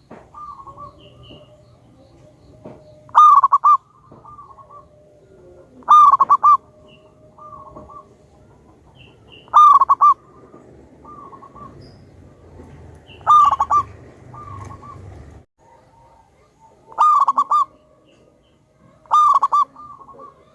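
Zebra dove (perkutut) cooing: six loud, short rippling coo phrases, one every three to four seconds, with fainter coos between them.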